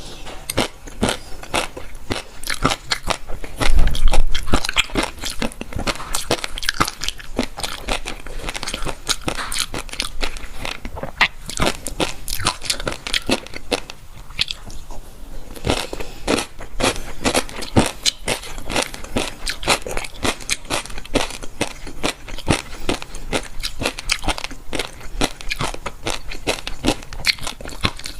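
Close-miked crunching and chewing of crisp food, with dense, irregular bites and crunches throughout. A loud low thump sounds about four seconds in.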